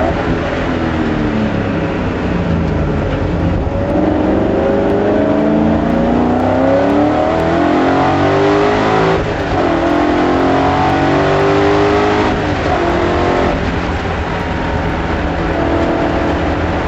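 BMW E30 race car's S62 5-litre V8, heard onboard under hard driving. The revs fall briefly, then climb, with sharp drops in pitch at upshifts about nine and twelve seconds in.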